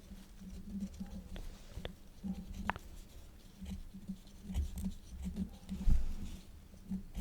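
Quill pen scratching on paper in short, irregular strokes, with scattered small clicks and a low knock about six seconds in.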